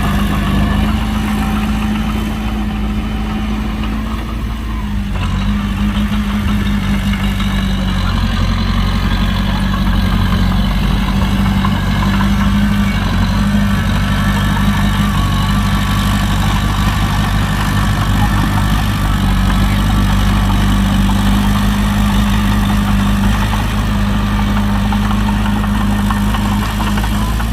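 Heavy diesel engine of earthmoving machinery running steadily, a little louder from about six seconds in.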